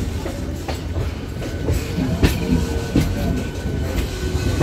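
Electric suburban local train (EMU) running at speed, heard from its open doorway: a steady rumble with several uneven clacks of the wheels over rail joints and points as the train crosses onto another line.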